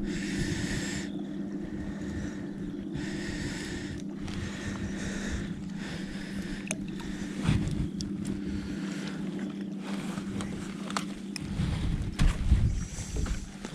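A steady low motor hum on the water, with passing swishes of water or wind. The hum cuts off about eleven seconds in, followed by a few knocks.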